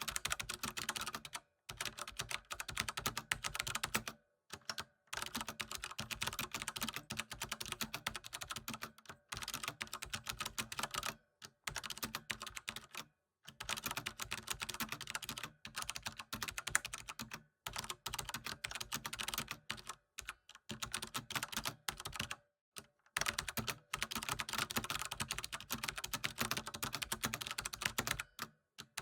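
Fast, continuous typing on a computer keyboard: rapid runs of key clicks, broken every few seconds by brief pauses.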